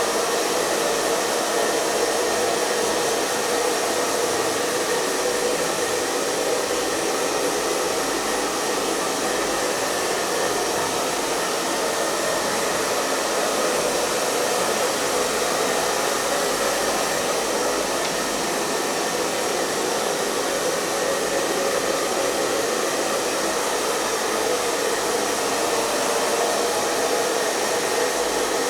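Hair dryer running steadily, a continuous airy rush of blown air with a motor hum around a low-mid band.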